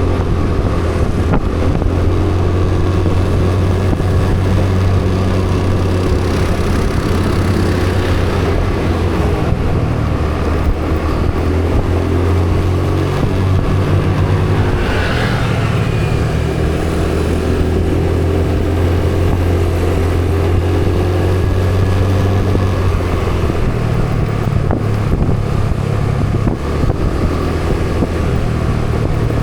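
A motorcycle engine running steadily under way, a loud low hum whose pitch drops and rises with changes in speed about halfway through and again near the end. A short hissing sound passes just after halfway.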